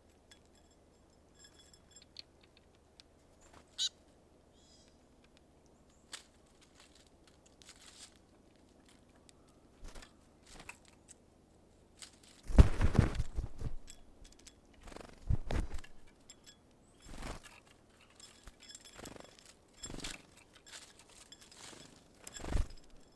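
Small birds at a feeder: a run of brief fluttering wingbeat bursts and rustles as they land and take off. The loudest comes a little past halfway and lasts about a second and a half, with several shorter ones after it and a few faint high chirps early on.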